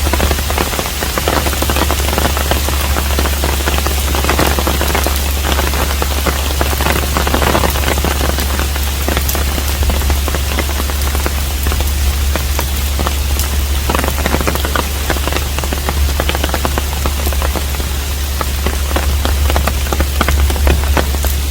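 Steady rain falling on a hanok, a traditional Korean house, dense with individual drop impacts, over a steady low rumble.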